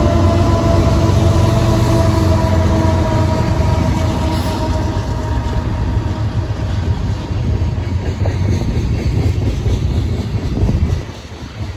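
A freight train's trailing Canadian Pacific diesel locomotives, including Hapag-Lloyd-painted #8781, pass close by with a deep engine drone and steady whining tones. These fade after a few seconds into freight cars rolling past, their wheels clicking over the rails. The sound drops off sharply near the end.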